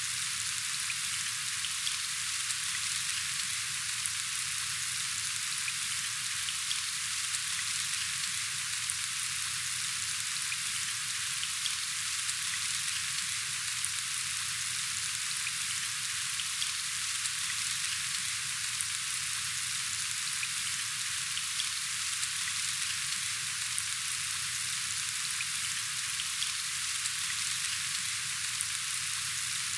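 Steady rain falling: a dense, even hiss with fine pattering of individual drops.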